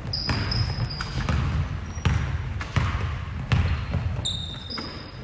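A ball bouncing on a hard gym floor, about one bounce a second, with sneakers squeaking on the court in short high chirps.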